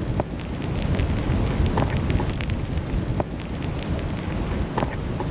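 Storm wind buffeting the camera microphone in a low, steady rumble, with scattered small ticks over it.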